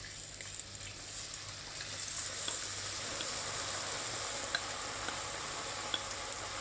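Cornflour-coated potato cubes deep-frying in hot oil: a steady sizzle that grows louder over the first couple of seconds, with a few small pops.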